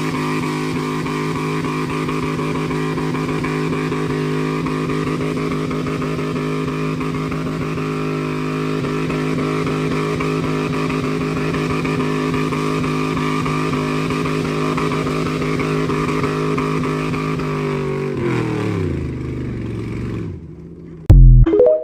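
Chevrolet 5.3-litre V8, straight-piped with no catalytic converters, idling steadily with an open exhaust note. Near the end it is switched off and winds down, and a brief loud thump follows.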